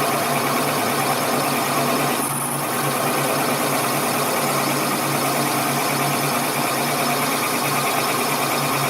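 A workshop machine running steadily with an even hum, from the rebuilding of a crankshaft's main journal.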